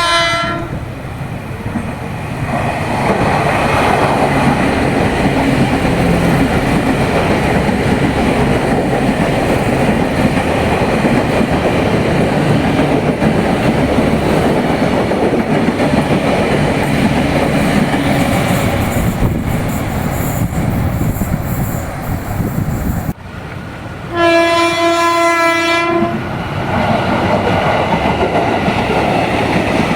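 A Tokyu 8500 series electric commuter train runs past with a steady rumble of wheels on rail; its horn tails off right at the start. After a sudden cut, a JR 205 series commuter train sounds its horn for about two seconds and then rolls past with the same wheel rumble.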